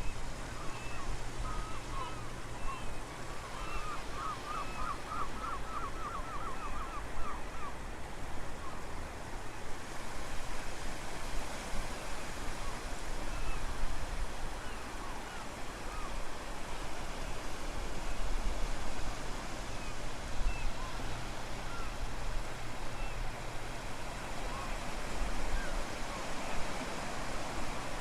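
Wind buffeting the microphone over the steady rush of surf at the shore, with small birds chirping. A bird gives a quick trill of repeated notes, about four a second, from about four seconds in.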